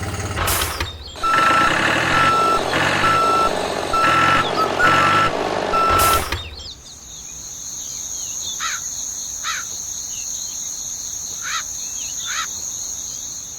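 Electronic beeper sounding six evenly spaced beeps, like a vehicle reversing alarm, over a running engine. After the beeps stop there is a steady high tone with four short chirps.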